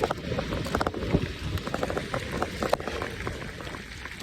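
Wind buffeting the microphone over the low rolling noise of an e-bike being ridden, with a couple of sharp knocks about a second in and near the three-second mark.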